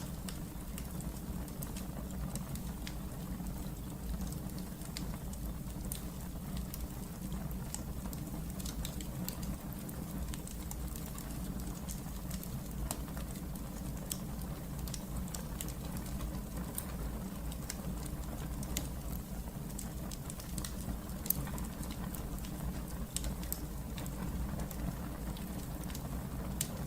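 Wood fire burning in a fireplace: a steady low rumble with scattered small crackles and one sharper pop about three-quarters of the way through.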